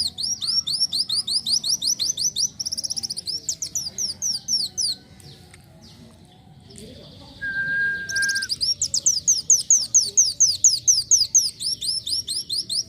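Kolibri wulung sunbird singing a fast string of high, downward-sweeping notes, about five a second, mixed with short buzzy trills. The song breaks off for about two seconds near the middle, where a short steady whistle sounds, then starts again.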